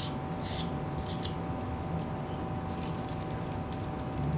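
Whittling knife shaving small cuts off a carved wooden bird: a couple of short scraping strokes, then a quick run of little strokes in the second half.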